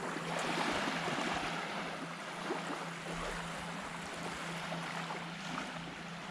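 Small waves washing on a sandy beach, one wash swelling in near the start and then easing off, with light wind on the microphone.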